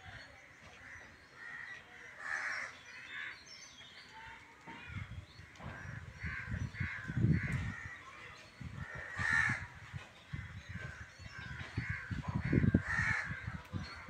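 Harsh bird calls in short repeated bursts, a few louder ones about two, nine and thirteen seconds in. From about five seconds on, low rumbling thumps come and go, making the loudest moments.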